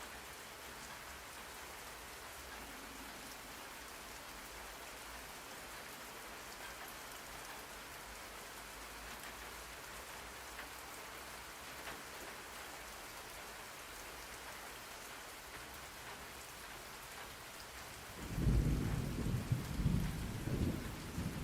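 Steady rain falling as an even hiss. Near the end a low rumble of thunder rolls in and is the loudest sound.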